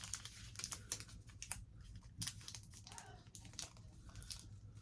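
Plastic candy-bar wrapper crinkling and crackling in irregular snaps as it is handled and pulled at in an attempt to tear it open.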